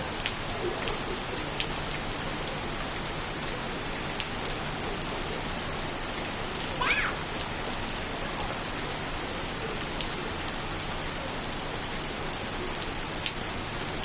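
Steady monsoon rain pattering on surfaces, with scattered louder drips. A single short bird chirp about seven seconds in.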